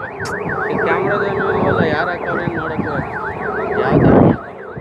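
An electronic siren in a fast yelp, its pitch sweeping up and down about four times a second, over a steady lower drone. A loud rumbling burst of noise comes near the end.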